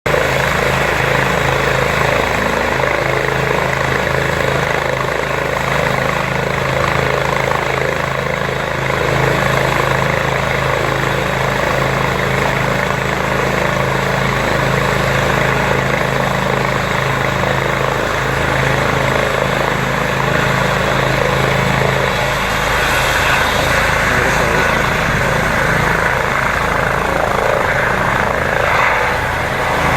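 Air ambulance helicopter running close by: a loud, steady drone of engine and rotors. The deep steady tones fade about 22 seconds in as a higher hiss grows.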